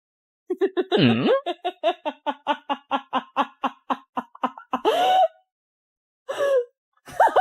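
A person laughing hard in a quick run of high-pitched "ha" bursts, about four or five a second, for over four seconds, followed by a few short vocal sounds near the end.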